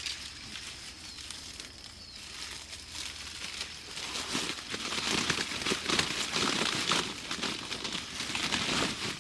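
Dry plant material rustling and crinkling, getting louder and busier from about four seconds in, over a faint steady high whine.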